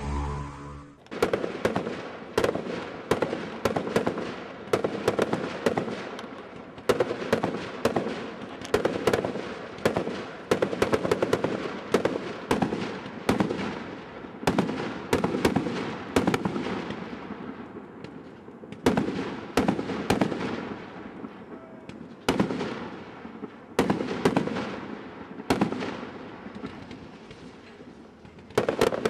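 Fireworks display: aerial shells bursting in quick succession, about one to two bangs a second at varying loudness, each bang trailing off in an echo.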